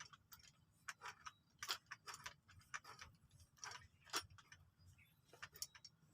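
Faint, irregular small clicks and taps from a CO2 airgun being handled, its CO2 cap being worked by hand, about a dozen clicks spaced unevenly.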